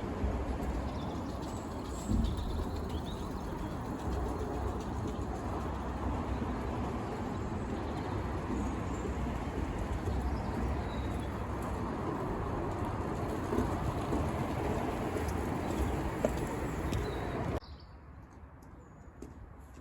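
A steady rushing noise with birds chirping faintly through it; near the end the noise cuts off suddenly, leaving quieter birdsong.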